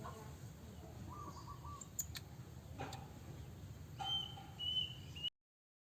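Faint bird calls, short wavering chirps, over a low background hum, with a few light clicks. A higher-pitched call starts about four seconds in, and the sound cuts off abruptly a little after five seconds.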